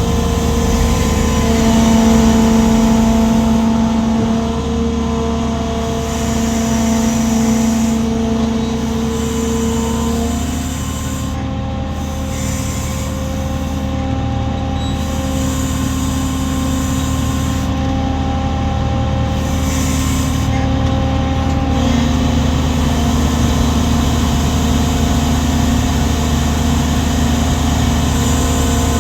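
A 200-ton lattice boom crawler crane's diesel engine and hydraulics running steadily under load, a low drone with whining tones that shift in pitch about ten seconds in and again near twenty seconds as the load is swung.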